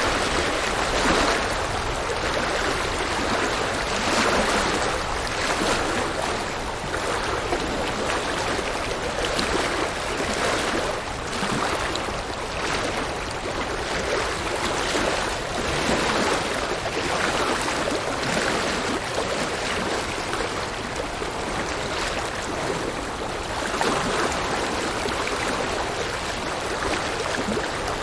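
Flowing river water making a steady rushing, babbling sound, with gentle swells in loudness every few seconds.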